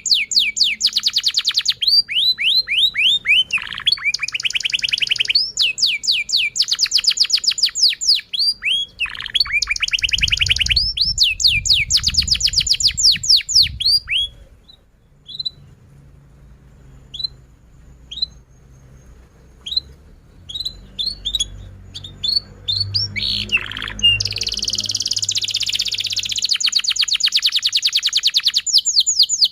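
Domestic canary singing long, rapid trills of repeated falling high notes, broken midway by a quieter stretch of scattered single chirps before the dense trilling resumes.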